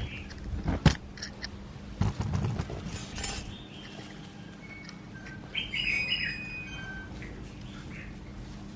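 Small birds chirping, with a burst of calls a little past the middle. A sharp knock about a second in and a rough scraping clatter around two seconds.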